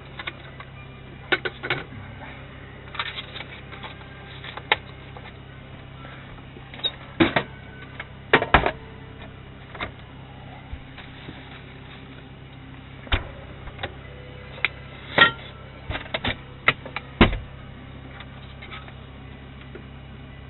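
Irregular sharp clicks and knocks, sometimes in quick clusters of two or three, over a steady low hum.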